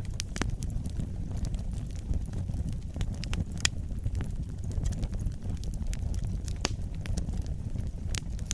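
Wood fire burning with a steady low rumble and frequent sharp crackles and pops, a few of them louder than the rest.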